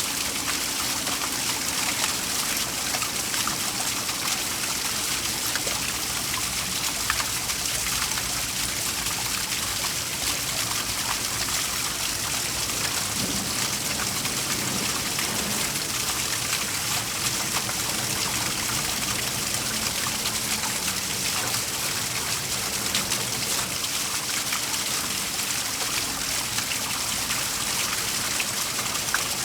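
Waterfall: a steady, even rush of falling water with a bright hiss and small splashes scattered through it.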